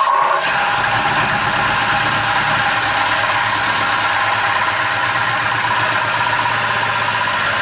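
Power saw with a metal-cutting blade cutting through a car's steel exhaust pipe to remove the muffler, running steadily with a whine and a fast low pulsing.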